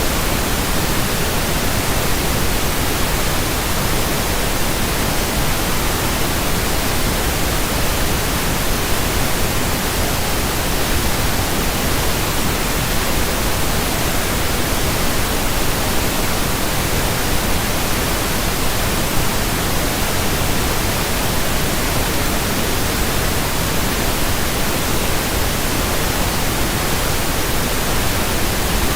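Steady pink noise: an even, unchanging hiss spread across the whole frequency range.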